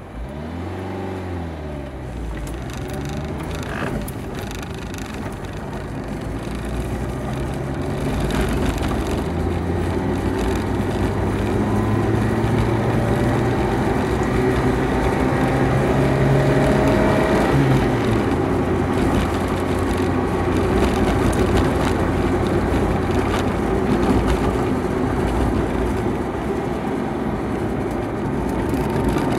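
Renault Supercinco Campus engine heard from inside the cabin over road noise, pulling through the gears: the revs dip and rise in the first few seconds, then climb steadily and drop sharply at a gear change a little past halfway.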